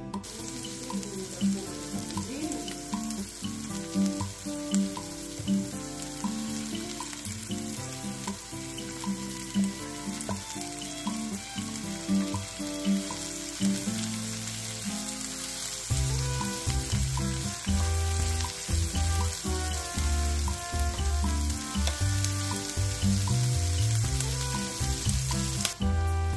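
Onions and bell peppers sizzling steadily as they fry in a skillet, under background music whose bass line comes in about halfway through.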